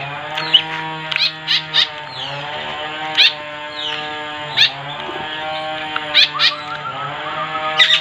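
Short, sharp bird chirps, about nine of them at irregular intervals, over steady held musical tones.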